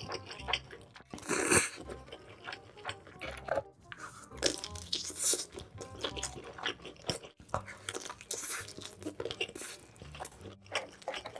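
Close-miked eating: wet chewing and biting of a big mouthful of spicy braised octopus, with several loud slurping or sucking bursts, one about a second and a half in. Soft background music with low notes plays underneath.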